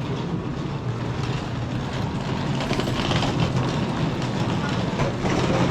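Steady rumble of a vehicle running close by, growing slightly louder, with people talking in the background.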